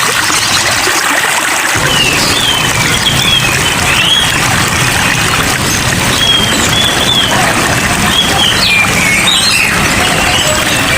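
Steady rain noise with small songbirds chirping over it in short, wavering phrases.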